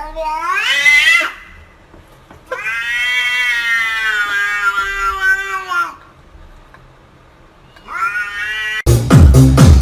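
A cat meowing in long, drawn-out calls: one rising call ending about a second in, a long held meow of about three and a half seconds, and a short rising one near the end. Dance music starts abruptly just before the end.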